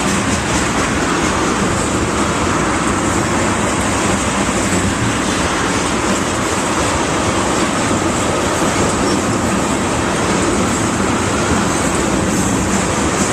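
A train running past on the tracks: a steady, loud rumble and rattle of wheels and cars on the rails.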